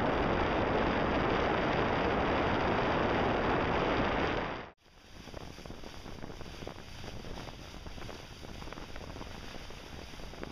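Wind and sea noise aboard a sailing boat: heavy wind noise on the microphone, then, after a sudden cut about five seconds in, quieter rushing and splashing water.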